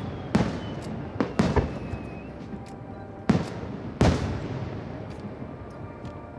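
Fireworks bursting: five sharp booms, three in the first second and a half and two more around three to four seconds in, each followed by a rolling echo that fades.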